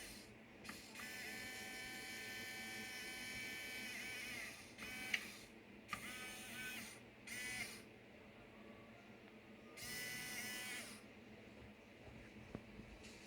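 Small electric motor and gearbox of a 1/14-scale RC tractor whining in bursts: one long run of about three and a half seconds, then several shorter ones, the pitch sweeping up as each starts.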